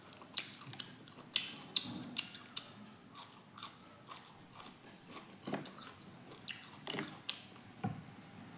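Close-miked eating sounds: a person chewing and biting boiled meat off the bone, with an irregular run of sharp, wet mouth clicks and smacks, several a second.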